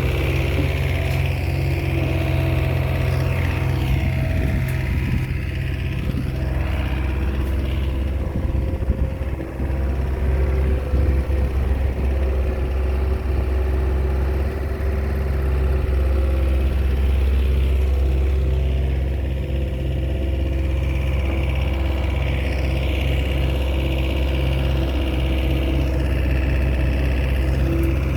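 Komatsu bulldozer's diesel engine running steadily while pushing soil, its level rising and falling slightly with the load.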